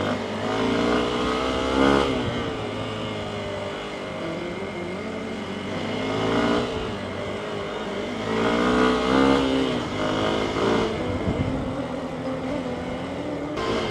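Hero XPulse 200's single-cylinder engine under way, revving up and dropping back several times as the bike accelerates and shifts gears. The rises come near the start, around six seconds in, and again around eight to eleven seconds in.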